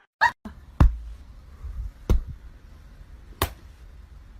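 Three sharp knocks or thumps, roughly a second and a quarter apart, the first the loudest, over a faint low rumble.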